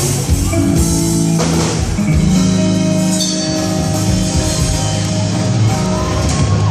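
Live band playing an instrumental passage, led by guitar with bass and drums, held chords changing every second or so.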